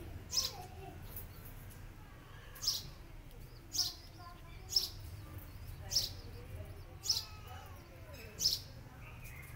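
A bird chirping repeatedly: short, high chirps every second or so.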